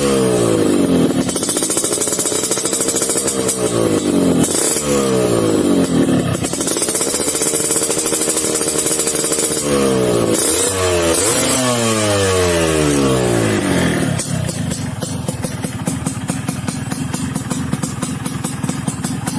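Yamaha RX-King's two-stroke single-cylinder engine revved through a stainless Kobra aftermarket exhaust: repeated throttle blips and held revs that rise and fall, then settling to a steady idle about fourteen seconds in.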